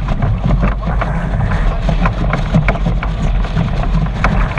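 Strong wind buffeting the microphone aboard a 420 sailing dinghy in about 45 knots of wind, a steady heavy rumble, with frequent short splashes and knocks of water against the hull.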